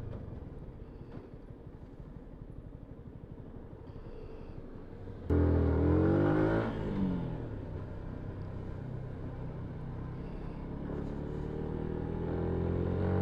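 Yamaha MT-125's single-cylinder 125cc engine running on the move. About five seconds in it gets suddenly louder and its note rises, then falls. Near the end the note climbs steadily again as it accelerates.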